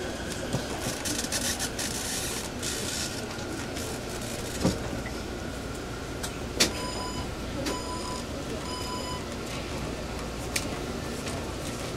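Interior of a Taipei MRT C371 metro car near the gangway: a steady rumble with scattered clicks and a couple of sharper knocks, then three short electronic beeps about a second apart, typical of the door-closing warning.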